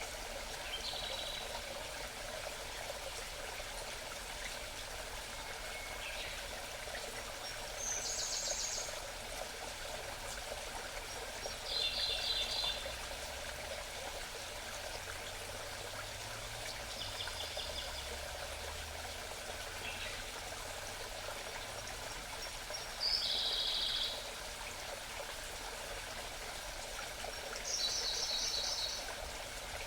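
Steady babbling of a small mountain stream, with a songbird repeating a short song about every four to five seconds: a brief lead-in note followed by a rapid, high trill lasting about a second.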